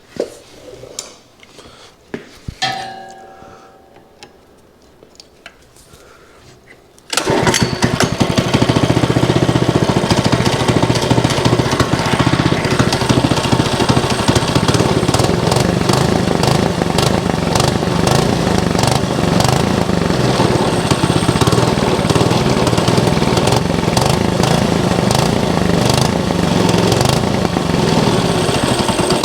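A few clicks and knocks, then about seven seconds in the go-kart's small gasoline engine catches suddenly and keeps running steadily and loud on choke: its first start after the carburetor has been cleaned.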